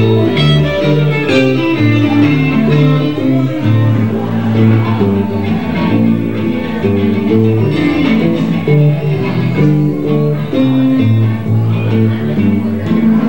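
Blues band playing live, an instrumental passage with no singing: electric guitar over a stepping bass line.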